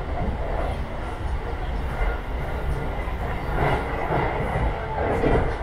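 Running noise inside a JR Tokaido Line train carriage: a steady low rumble of the wheels on the rails, with a rushing noise that swells up twice in the second half.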